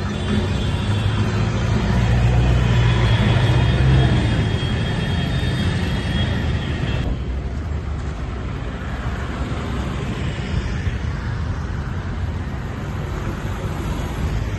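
Street traffic: a motor vehicle's engine runs close by, loudest a few seconds in. About halfway through it cuts off suddenly to quieter traffic noise.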